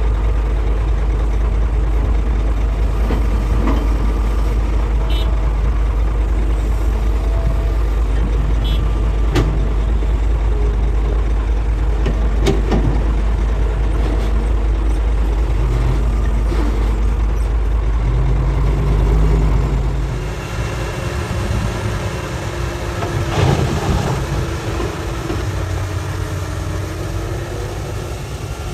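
Hitachi hydraulic excavator's diesel engine running steadily while digging rock, with a few sharp clanks of metal striking rock. Well into the clip the deep rumble drops away and the engine note shifts.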